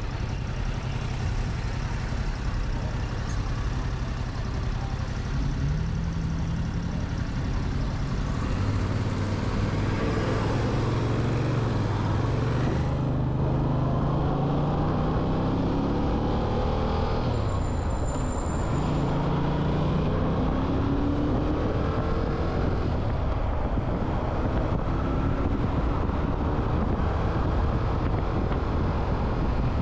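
Motorcycle riding in traffic, its engine pitch climbing as it accelerates through the gears a few times, over a steady rush of wind and road noise.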